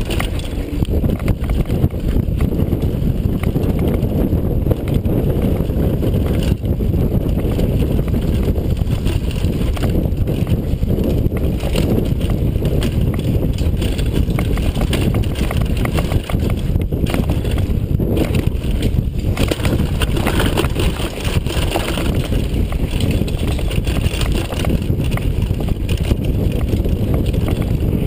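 A downhill mountain bike being ridden over rough trail: steady, loud noise of tyres and wind on the microphone, with constant small rattles and knocks from the bike.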